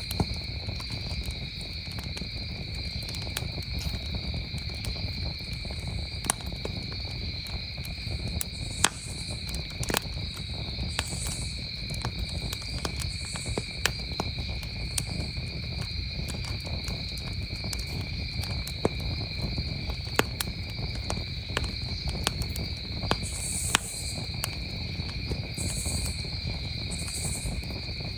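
Wood campfire crackling with scattered sharp pops and a low rumble of burning, over the steady high trilling of crickets.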